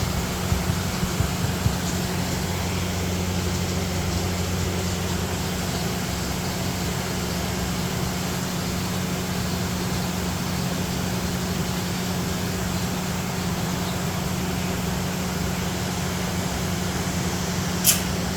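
Steady low hum with a background hiss, a few soft low thumps in the first couple of seconds, and one sharp click near the end.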